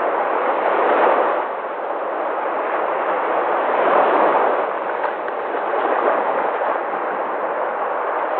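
Sea waves breaking in a continuous rush of surf, swelling and easing every few seconds.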